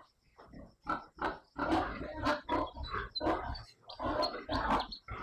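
Pigs calling, a rapid string of short rough calls that comes thick and close together from about a second and a half in.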